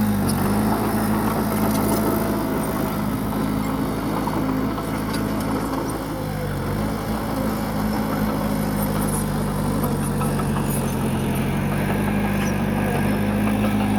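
Bulldozer's diesel engine running steadily while working. Its pitch sags a little about halfway through and picks back up near the end.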